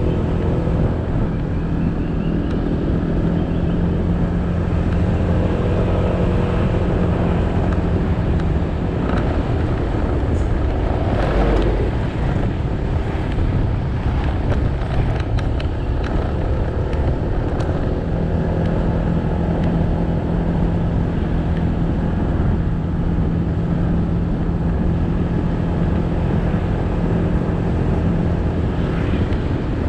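Motorcycle engine running at a steady pace, with tyre and road noise. The steady engine note falls away for several seconds in the middle, where a few sharp knocks and a sweep in pitch are heard before the steady note returns.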